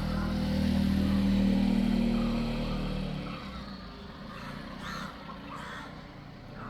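A motor vehicle's engine hum passes, loudest about a second and a half in and fading away by about three seconds. Birds call in the second half.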